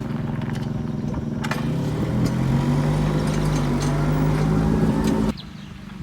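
A motor engine running steadily, its pitch rising slightly in the middle, then dropping abruptly to a quieter hum about five seconds in.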